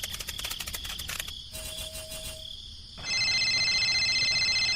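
Sound effects: a fast run of chirping clicks, a short low tone, then, about three seconds in, a loud, steady, slightly pulsing high electronic tone like a ringtone or alarm.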